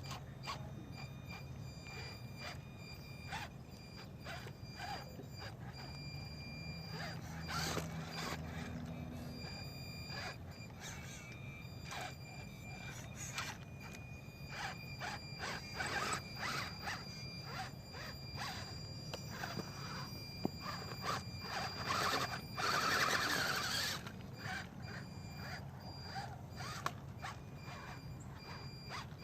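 WLtoys 10428-A RC crawler truck's electric motor and gearbox running with a steady thin whine as it crawls over rock, with scattered clicks and knocks throughout. There is a louder burst of noise about twenty-three seconds in.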